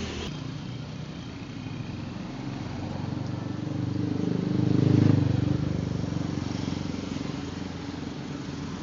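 A motor vehicle's engine passing by: it grows louder to a peak about five seconds in, then fades away.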